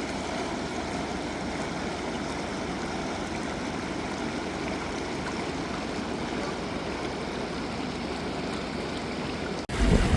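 Rushing river water, a steady even rush with no letup; it cuts off abruptly near the end, where a louder, deeper sound takes over.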